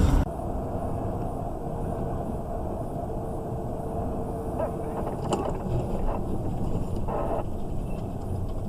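Steady low rumble of a car driving, with a few faint brief clicks.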